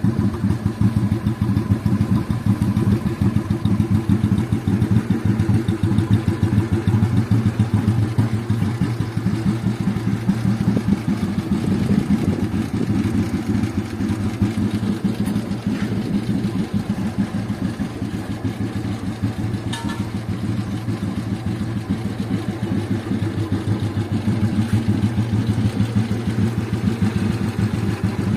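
Exhaust of a 1969 Royal Enfield Bullet B1's single-cylinder engine running, a steady rapid thump heard on board. It eases a little in the middle and picks up again near the end.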